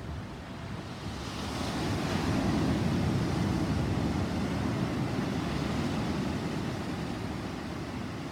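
Rolling thunder: a low rumble that swells about a second in, holds loudest for a few seconds, then slowly dies away.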